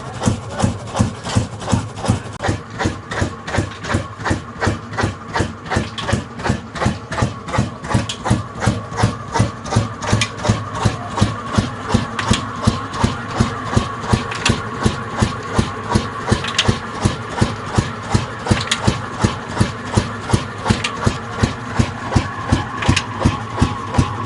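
Old 25 HP single-cylinder 'black' diesel engine driving a tube-well pump, running steadily at slow speed with an even beat of about three exhaust thumps a second.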